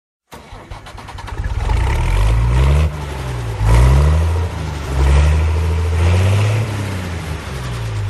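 Tractor engine starting and then revving up and down several times, a low-pitched running sound that swells and drops.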